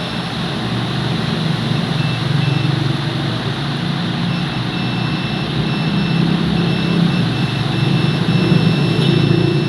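A motor vehicle running: a steady engine and road noise with a wavering low hum, and a faint high tone that comes and goes.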